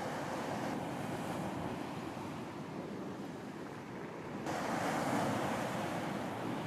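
Ocean waves washing onto a beach, a steady hiss and rumble of surf, with a fresh wave breaking about four and a half seconds in and swelling louder before easing; some wind on the microphone.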